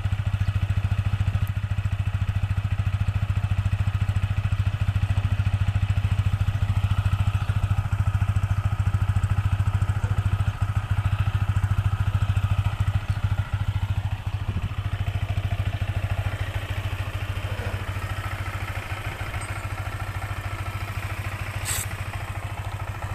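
Yamaha XSR 155 motorcycle's 155 cc single-cylinder engine idling steadily, heard close to the exhaust, a little softer in the second half, with one sharp click near the end.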